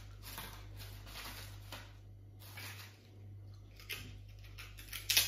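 Close-up eating sounds: a series of short crunches and chewing, mixed with the crinkle of a plastic bag as a hand reaches into it for prawn crackers. The loudest crunch-and-rustle comes near the end, over a steady low hum.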